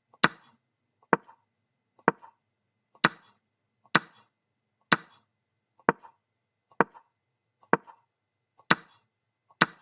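Chess move sound effect: a sharp wooden click of a piece being set on a square, repeated at an even pace of about one a second, eleven times. Each click marks one move of the game being played through.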